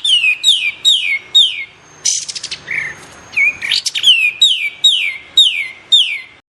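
Kapas tembak bird song: a run of clear, loud whistled notes, each sliding downward, about two a second, broken by a short buzzy rattle about two seconds in. The song cuts off abruptly just before the end.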